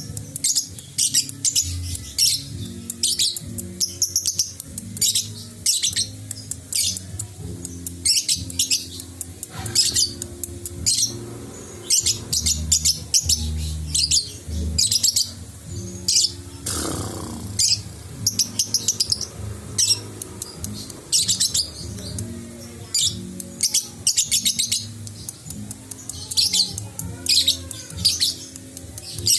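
Young lovebird chirping in quick, repeated high bursts all through, over background music with steady low notes. About 17 seconds in, a single falling sweep cuts across.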